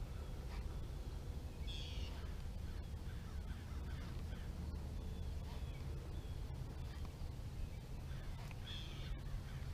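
Birds calling: two louder calls, about two seconds in and near the end, with fainter calls between, over a steady low rumble.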